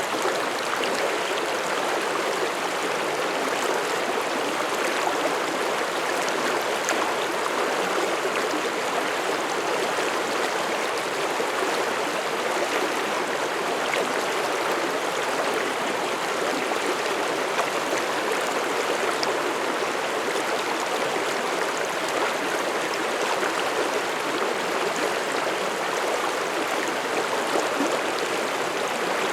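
Mountain stream flowing over rocks: a steady rush of running water with no change in level.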